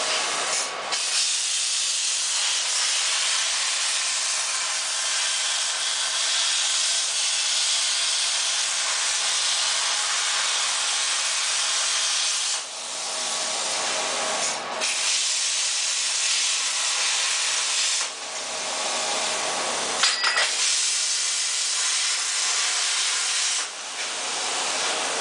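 CNC plasma cutter cutting sheet metal: a loud, steady hiss from the plasma arc and its air stream, broken by brief pauses several times.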